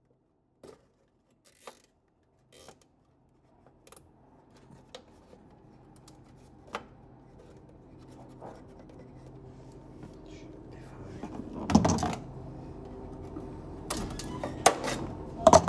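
Walk-in freezer condensing unit cycled off and back on. Its hum cuts out, a few scattered sharp clicks follow, and then a low steady hum slowly builds again. Two louder clattering bursts come near the end. The compressor has been failing to start, and the technician blames the start components.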